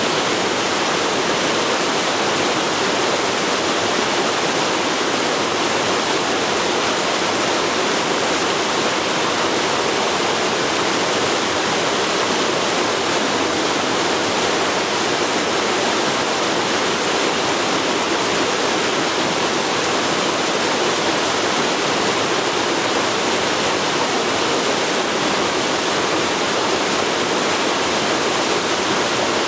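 Forest river flowing, a steady rushing of water with no changes.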